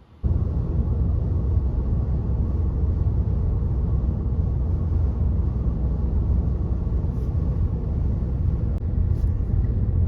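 Steady low road and engine rumble of a car driving at speed, heard from inside the moving vehicle.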